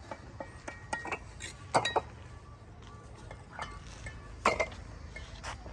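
Irregular sharp metallic clinks and knocks of bricklaying work: a steel trowel striking bricks and mortar, about a dozen strikes with the loudest ones near two seconds and four and a half seconds in.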